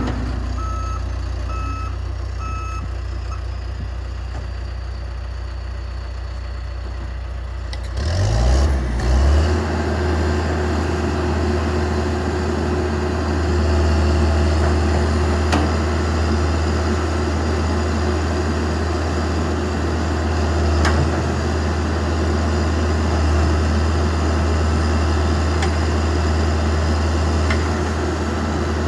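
Backhoe's diesel engine running steadily, its reversing alarm beeping for the first few seconds. About eight seconds in, the engine revs up and keeps running louder under work.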